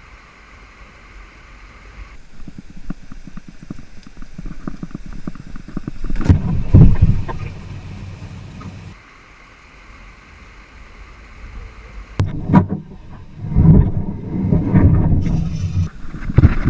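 A kayak on moving river water: rushing, splashing water with wind buffeting the microphone, in several short cut-together clips. There are loud low surges about six to seven seconds in and again from about thirteen to sixteen seconds.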